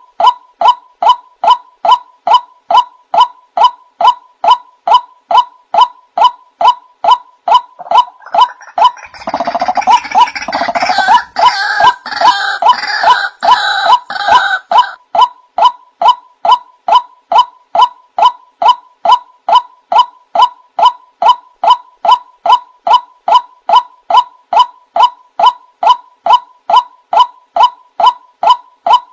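Male white-breasted waterhen calling: a short note repeated evenly about two and a half times a second. From about nine to fifteen seconds in, a louder, harsher burst of calling overlaps it.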